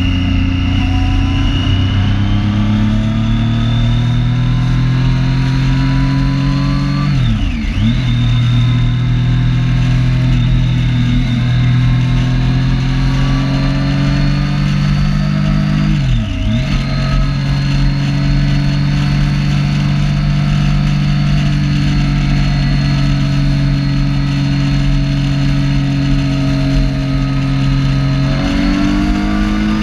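Triumph Street Triple 675's inline three-cylinder engine pulling on the motorway, heard from the rider's position, its pitch climbing slowly. Its note dips sharply and recovers twice, about a third and halfway through, runs steady, then rises again near the end as the bike speeds up.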